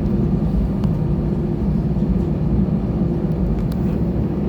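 Steady roar inside the cabin of an Airbus A320-232, its IAE V2500 turbofan engines and the airflow making a low rumble with a faint steady hum above it.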